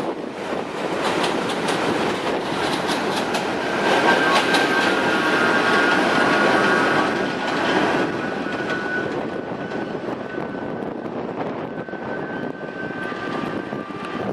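An R32 subway train running past, its wheels clicking rapidly over rail joints. A high steady whine joins a few seconds in. The noise peaks in the middle and then eases off as the train moves away.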